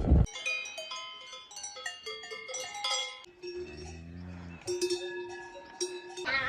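Several cowbells ringing at different pitches, clanking irregularly and overlapping. About halfway through, a lower drawn-out sound comes in for roughly a second.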